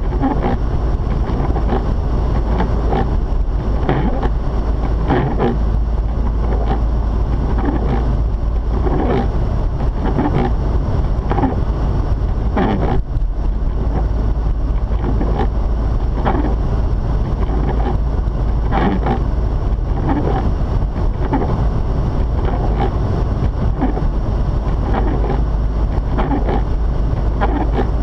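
Mazda RX-8 driving on a snowy road: a steady, loud low rumble of engine and road noise, broken by frequent irregular short crackles.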